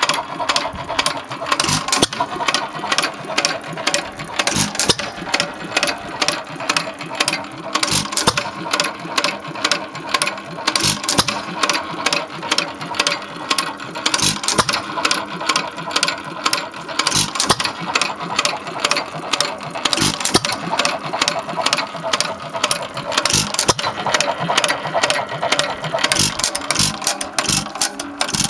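1.5 hp Hercules hit-and-miss stationary engine running: a rapid mechanical clicking from the engine as it coasts, broken by a stronger firing knock about every three seconds.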